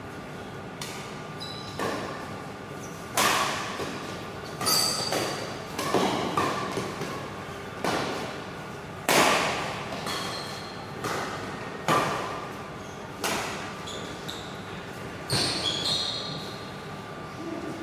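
Badminton rally: a racket strikes the shuttlecock back and forth, a sharp hit roughly every one to two seconds, echoing in a sports hall, with a few short high squeaks between the hits.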